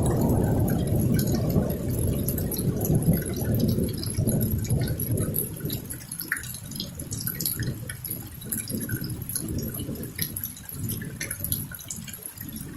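Rain dripping and pattering in a thunderstorm, with a low rumble of thunder that dies away over the first several seconds.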